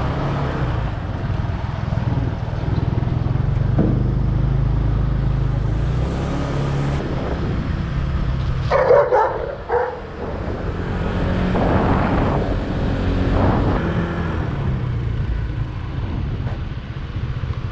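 Motorcycle engine running steadily with wind and road noise while riding. About nine seconds in, a brief, louder sound cuts through.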